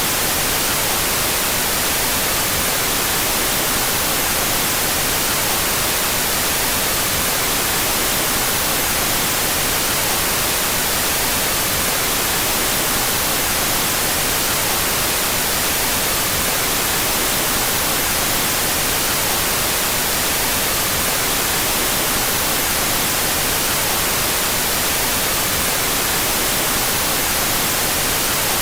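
Steady synthetic white noise: an even, unchanging hiss across the whole range, brighter at the top, played as an out-of-phase stereo track.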